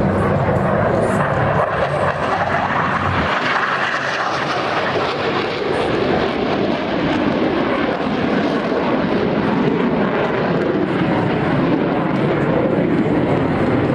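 Loud, steady jet engine noise from Blue Angels F/A-18 jets flying over.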